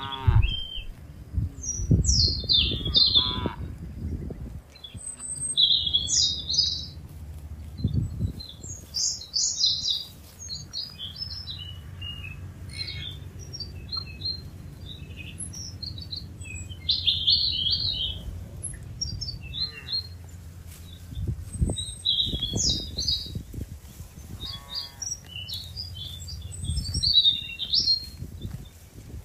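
Small birds chirping and calling in short high bursts throughout, over a low steady rumble, with a few louder low rustling thumps.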